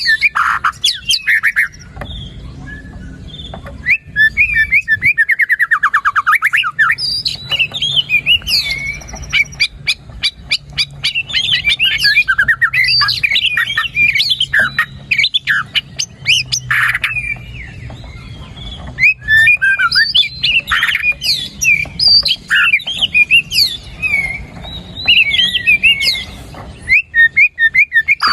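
White-rumped shama (murai batu) singing a loud, fast, varied song of whistled phrases, trills and harsh squawky notes, one phrase after another with only short breaks.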